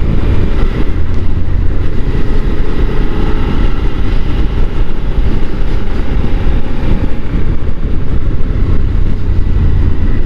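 Steady rush of wind buffeting a helmet microphone on a moving motorcycle, with the bike's engine running underneath.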